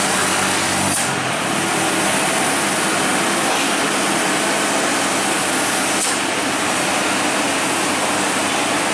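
Road vehicle engine running under a loud, steady hiss of noise. A low engine hum is clearer in the first second, then sinks into the hiss, and the sound cuts off suddenly at the end.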